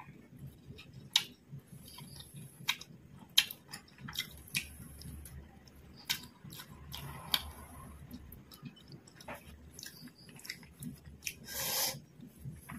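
Close-up eating sounds: fried quail and biriyani rice being bitten and chewed, with many sharp crunchy clicks and wet mouth sounds. A longer, louder noise of about half a second comes near the end.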